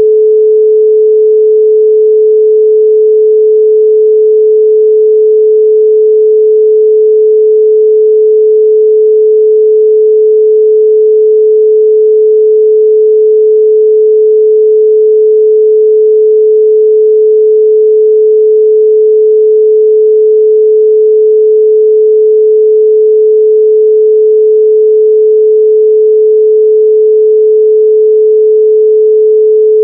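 A steady 432 Hz pure sine tone, one unbroken pitch held throughout at high level.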